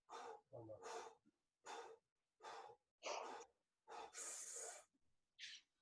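A person breathing hard: about seven faint, quick breaths in and out, panting to recover after a heavy set of barbell squats.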